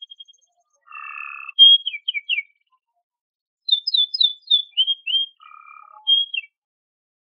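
Domestic canary singing: two phrases of quick, falling whistled notes mixed with buzzy notes, with a pause of about a second between them.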